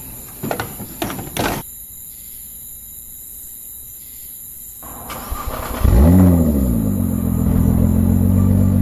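Nissan GT-R R35's twin-turbo V6 starting through an ARMYTRIX 90 mm decat, straight-piped turbo-back exhaust: a loud rev flare about six seconds in that settles into a steady idle. Three short clicks or knocks come in the first second and a half.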